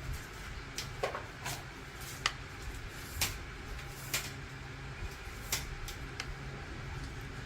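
About ten irregularly spaced light clicks and knocks over a low steady hum.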